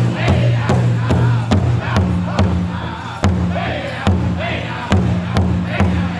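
Powwow drum group singing in chorus over a steady beat on a big drum, about two strikes a second.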